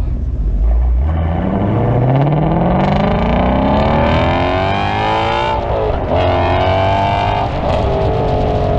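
A car engine accelerating hard through the gears. Its pitch climbs for several seconds, drops at an upshift about two-thirds of the way in, climbs again, and drops at a second shift near the end.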